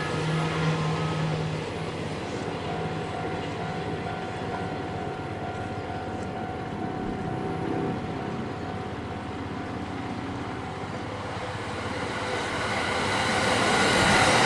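Container freight train rumbling away into the distance, then an orange-and-green striped commuter electric train approaching round a curve and passing close by. The sound grows louder toward the end and cuts off suddenly.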